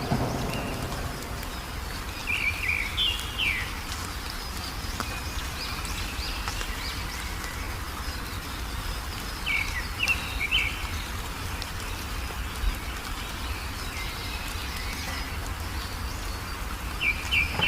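Songbird chirping in three short bouts of quick, high, sliding notes, used as a lure call to set off caged birds, over a steady low rumble.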